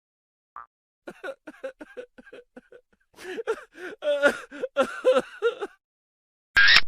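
A comic voice sound effect: a person's voice in a quick string of short, laugh-like syllables, rising and falling in pitch, followed near the end by a brief loud burst of noise.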